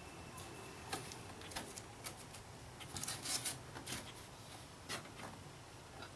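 Light, irregular knocks, taps and rubbing scrapes of a foam-board template being handled and pushed into place, with a busier burst of rubbing about three seconds in.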